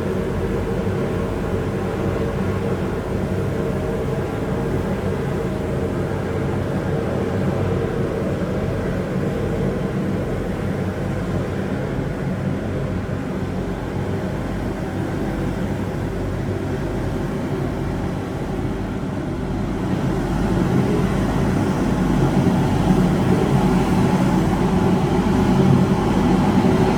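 Road-sweeping vehicle running with a loud, steady engine drone and rumble, growing louder about two-thirds of the way through.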